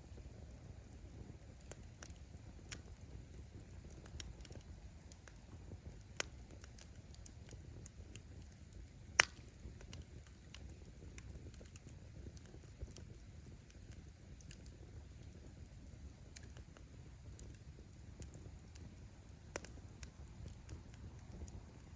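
Wood bonfire burning: a low steady rumble of the flames with scattered crackles of burning firewood, and one sharp, loud pop of wood bursting about nine seconds in.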